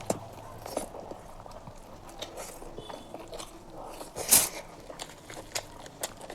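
A person eating close to the microphone: chewing and biting, with scattered mouth clicks and small crunches and one louder bite or crunch about four seconds in.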